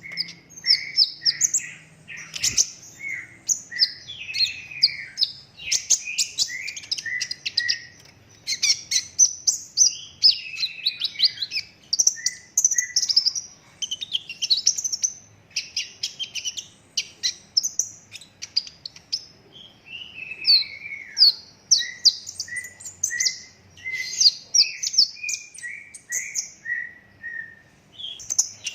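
Olive-backed sunbird in green plumage singing continuously: fast high chirps, trills and quick up-and-down notes one after another, and near the end a run of short repeated notes about two a second.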